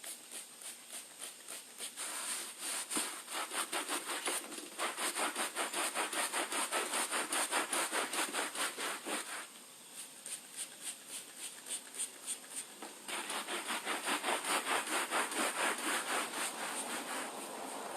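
A brush scrubbing a wet rubber anti-fatigue mat in quick back-and-forth strokes, about two to three a second, to degrease it. The strokes start about two seconds in, ease off to lighter scrubbing for a few seconds past the middle, then pick up hard again.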